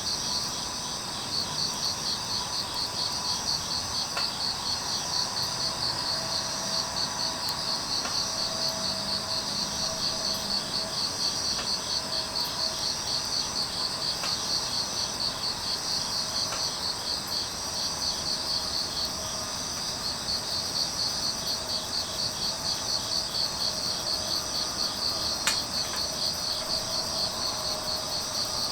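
Grass insects (crickets) chirping steadily in a fast pulsing rhythm, with a few sharp pops from burning firewood scattered through.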